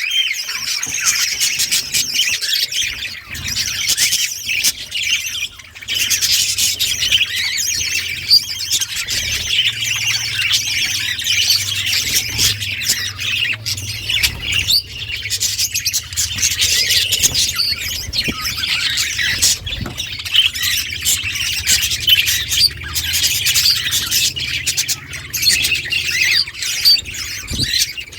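A flock of budgerigars chattering, warbling and squawking without a break, many birds calling over one another.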